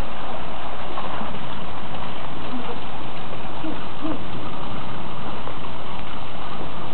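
Heavy rain pouring down in a storm with wind, a loud, steady, even wash of noise.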